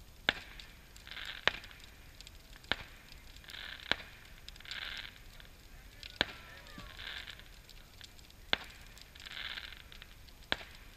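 Wood fire of a burning boat crackling, with sharp single pops every second or two and faint hissing patches between them.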